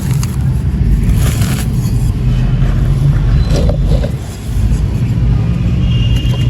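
Mini clay pots of dry sand crumbling as they are crushed, a continuous gritty crunching with a heavy low rumble.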